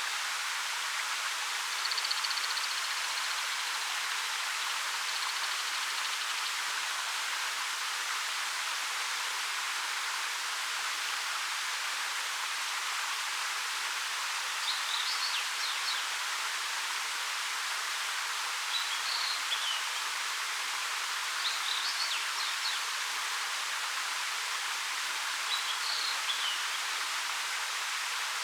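A 13 m waterfall pouring steadily, a constant rushing hiss of falling water. A small bird calls high above it: one drawn-out note about two seconds in, then four short chirpy calls spread through the second half.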